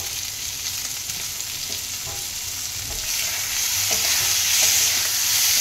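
Boiled potato pieces with onion and tomato sizzling in oil in a kadai while a steel spatula stirs them. The sizzle grows louder about three seconds in as the potatoes are turned.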